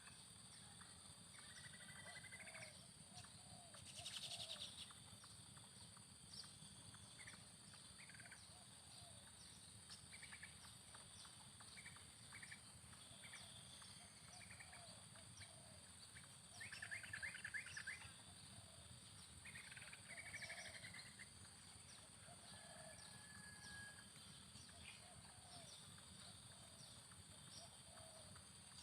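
Faint bird calls: low, repeated coos of spotted doves (terkukur) mixed with rapid trills and chirps of other birds, the loudest trill about two-thirds of the way in, over a steady high whine.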